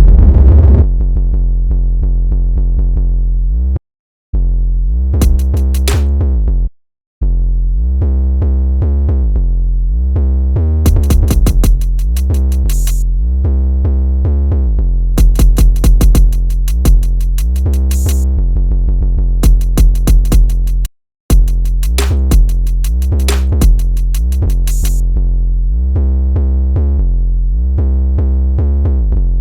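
Electronic drum-machine beat built in Maschine 2 from a loop sample: a heavy bass line under drum hits, with bursts of rapid hi-hat rolls. It cuts out abruptly to silence three times and starts again.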